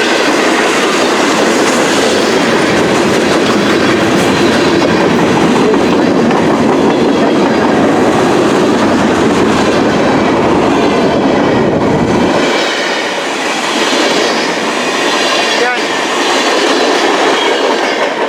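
Freight cars of a CN mixed freight train rolling past, a steady loud rumble with the clickety-clack of wheels on rail joints. The deep rumble drops away about twelve seconds in, leaving the lighter rolling noise.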